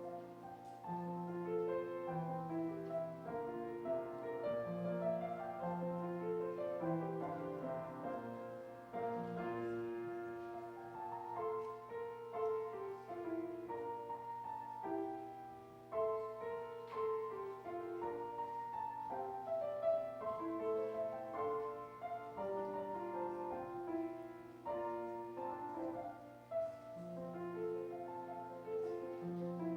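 Slow instrumental keyboard music: chords and a melody in held notes over a steady low bass note, played as offertory music.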